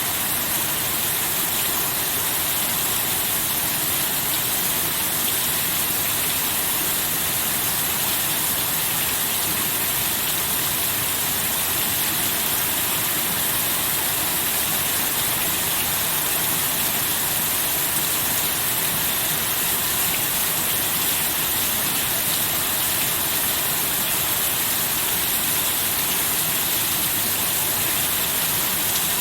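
Steady heavy rain, an even hiss that does not change, with no thunder.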